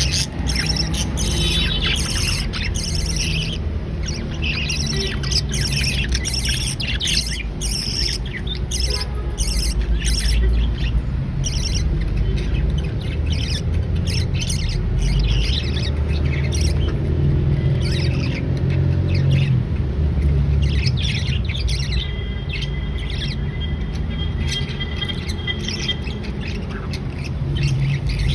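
Budgerigars chirping and chattering in many quick, high calls, over a steady low hum.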